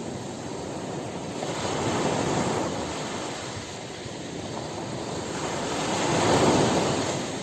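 Ocean waves breaking on a beach, the surf swelling twice, about two seconds in and again, louder, near the end.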